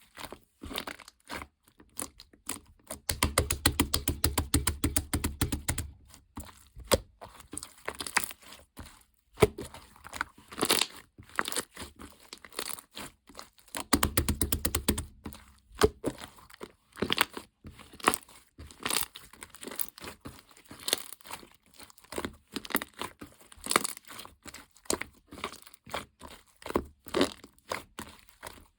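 Packaging material being handled close up: crinkling, tearing and sharp crackles, with two longer spells of rapid, dense crackling about three seconds in and again around fourteen seconds.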